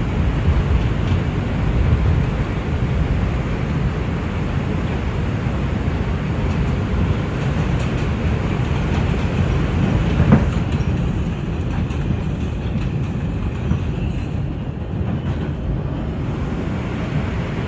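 NYC Subway R142 train running between stations: a steady rumble of wheels on the rails, with a single sharp clack about ten seconds in.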